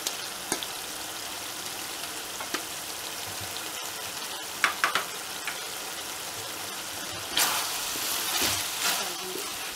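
Chicken mince frying in its masala in a pan, a steady sizzle, with a few light ticks near the middle as green chilli pieces are added. From about seven seconds in, a wooden spatula stirs the mince, a louder scraping rustle for a second or two.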